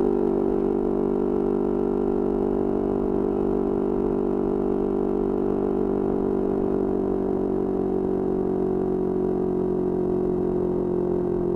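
Yamaha R25 parallel-twin engine running at steady revs through an aftermarket Kea Speed exhaust, an even, unchanging drone whose pitch sags slightly near the end.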